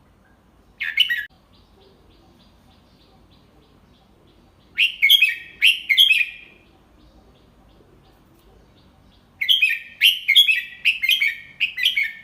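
Red-whiskered bulbul singing, a tutor bird's song of the kind played to young bulbuls to copy. There is a brief call about a second in, then a short phrase of three quick whistled notes near the middle, and a longer run of quick notes near the end.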